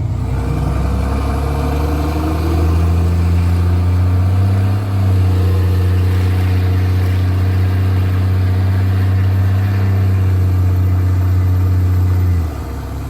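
Straight-piped Cummins C8.3 inline-six diesel in a school bus pulling under acceleration: a loud, deep exhaust drone that rises in pitch over the first couple of seconds. It then holds steady, with a brief dip about five seconds in, and drops away sharply near the end.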